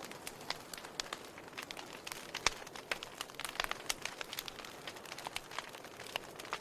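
Wood fire burning, crackling with irregular sharp pops over a soft steady hiss; one pop about two and a half seconds in is the loudest.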